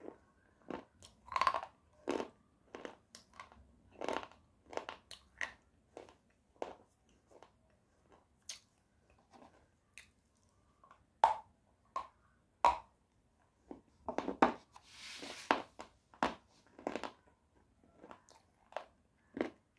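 A thick white clay bar bitten and chewed right at a lapel microphone: irregular sharp crunches, a few much louder bites in the second half. There is a short hiss about three-quarters of the way through.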